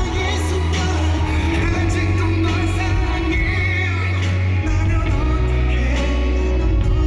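Live K-pop concert music: singing over an amplified backing track with heavy, steady bass, recorded from the audience.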